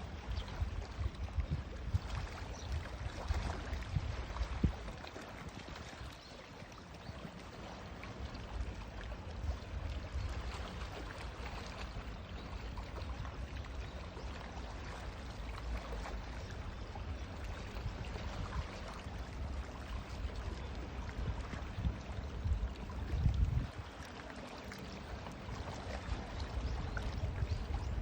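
Sea waves washing and surging on the shore: a continuous rushing wash with heavy low rumbling surges in the first few seconds and again around two-thirds of the way through.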